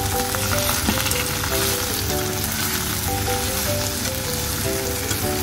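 Double orange daylily (yabukanzo) flowers and buds sizzling as they stir-fry in a frying pan, pushed about with chopsticks. A simple background music melody plays over it.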